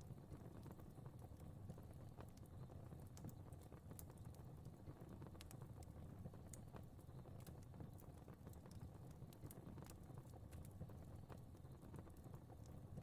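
Faint crackling of a wood fire: scattered sharp pops and snaps over a low, steady rumble.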